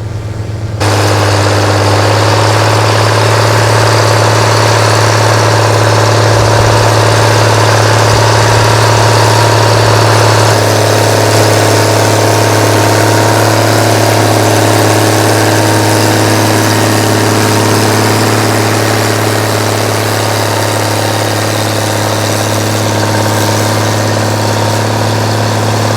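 Farm tractor engine running steadily, a low hum with a stack of steady tones above it. It comes in suddenly and loud about a second in, and the tones shift slightly around ten seconds in.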